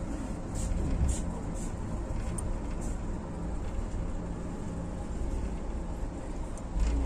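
Moving express passenger train heard from inside the coach: a steady low rumble of the wheels running on the track, with a few light clicks in the first three seconds and a louder surge of rumble near the end.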